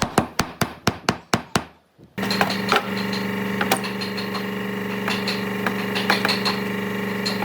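About nine quick hammer blows on wood, then a brief pause and an electric power tool that starts abruptly and runs at a steady hum with light clicks.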